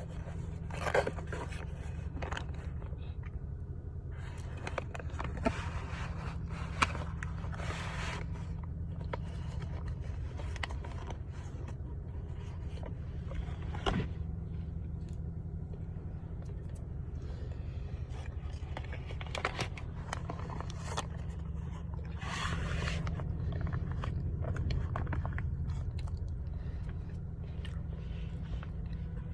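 Cornstarch being bitten and chewed close to the microphone: dry crunching and scraping crumbles in irregular bursts, with a few sharp snaps, over a steady low hum.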